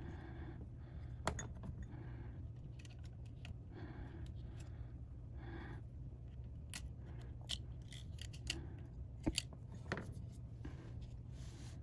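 Small metallic clicks and taps of hand tools and screws on a MacBook Pro's internals during disassembly, scattered and irregular, with one sharp click about a second in and a cluster of louder clicks near the end, over a steady low hum.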